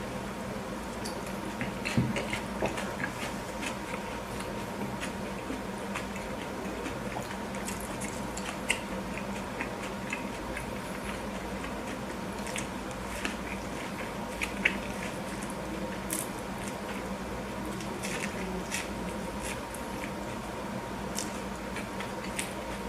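Close-miked eating of a burger: biting and chewing, with scattered wet clicks and crackles of the mouth and food. A steady hum runs underneath.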